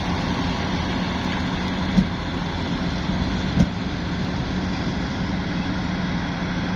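Heavy vehicle engine running steadily with a constant low hum, and two short knocks, about two seconds and three and a half seconds in.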